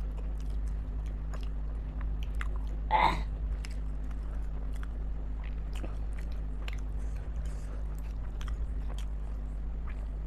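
A person chewing and biting steamed chicken momos in spicy gravy, with many small wet mouth clicks and one brief louder sound about three seconds in.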